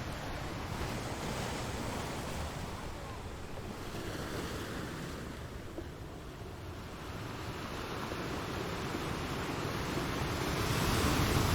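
Ocean surf washing in, a steady rush of waves that eases a little around the middle and then swells louder toward the end.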